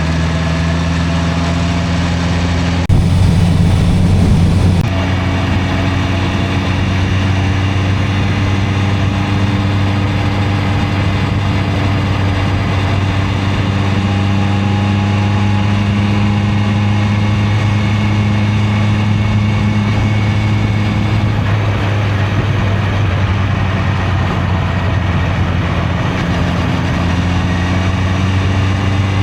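Honda CB650R's inline-four engine running at a steady pace, its note drifting slightly up and down in pitch. About three seconds in there is a louder rush of noise lasting about two seconds.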